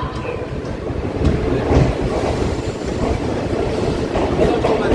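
Indian Railways passenger coaches of the 18011 Chakradharpur Express rolling slowly into a station platform, heard from the open coach doorway: a steady rumble of wheels on rail with a few light knocks.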